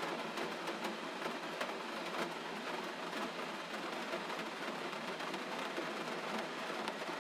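Gentle rain falling steadily: an even hiss with many small drop ticks scattered through it.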